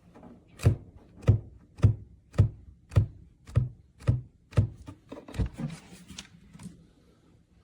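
A series of about nine evenly spaced knocks, a little under two a second, followed by a few lighter clicks near the end.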